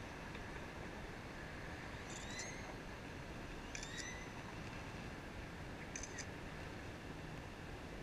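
A bird gives three short, squeaky chirps about two seconds apart, over a steady hiss of wind and rolling noise.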